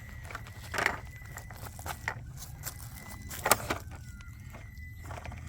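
Small electric RC rock crawler (Traxxas TRX4M) working across a trail obstacle: a steady high motor whine with scattered clicks and knocks from the chassis and tyres. The two loudest knocks come about a second in and past three seconds.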